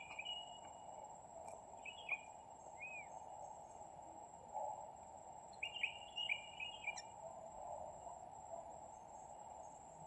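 Faint bird calls: a few short calls about two seconds in and a quick run of them around six to seven seconds, over a steady insect drone with a thin high steady whine.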